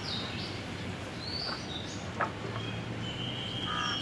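Birds calling: short whistles that sweep down in pitch, then one long held whistle near the end, over steady background noise. A single sharp click about two seconds in.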